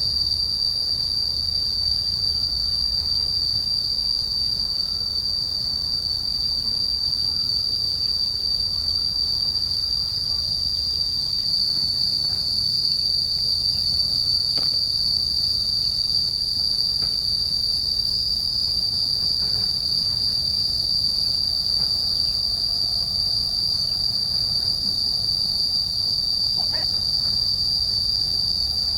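A steady high-pitched insect drone, such as crickets or cicadas, holding one unchanging pitch over a low rumble, with a few faint ticks.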